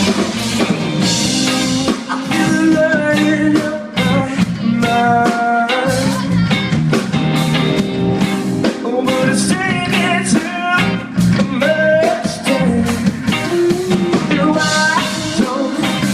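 Rock band playing live, loud and continuous, with guitars and drum kit.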